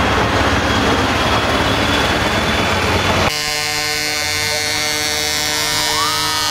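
Trucks in a parade: a dense rumble of engines and road noise, then, after an abrupt change about three seconds in, a steady, many-toned truck air horn sounding.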